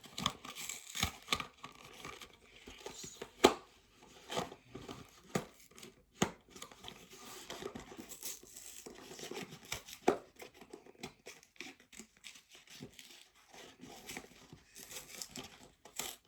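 Hands tearing and crinkling open the cardboard-and-plastic blister packaging of a die-cast toy car: irregular rips, crackles and clicks, with one louder snap about three and a half seconds in.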